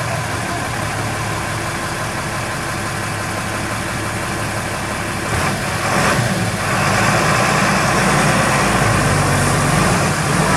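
Heavy truck diesel engine running steadily, then growing louder as it revs up about six seconds in.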